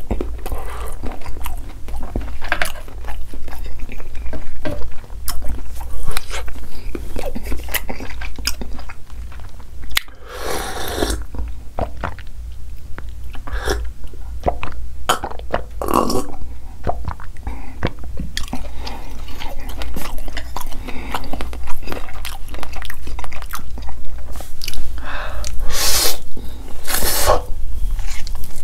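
Close-miked eating sounds: wet chewing and lip-smacking of spicy instant noodles and sausage, with a few longer, louder slurps and swallows, including gulps of milk about halfway through.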